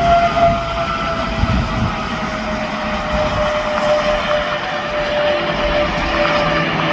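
Interstate traffic rushing past. Over it a single steady whine sounds throughout, slowly sinking in pitch.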